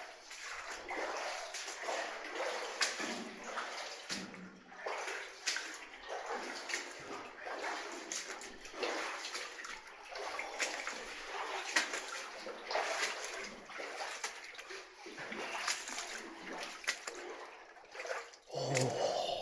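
Water splashing and sloshing in irregular surges about a second apart, with small knocks among them.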